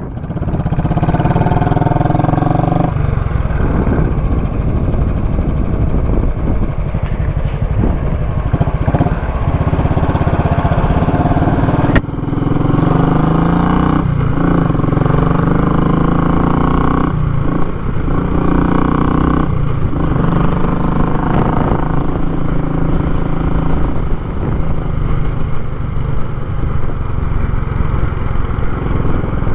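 Royal Enfield Classic 500's 499 cc single-cylinder engine running loud through a short, raw muffler as the bike is ridden. The note breaks off briefly and shifts in pitch several times.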